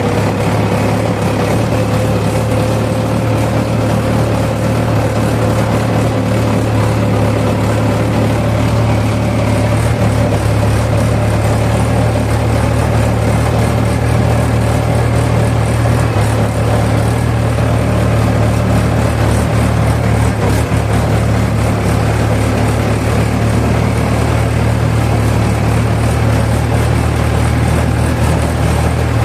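Diesel engine of heavy farm machinery running steadily, with a constant low hum throughout.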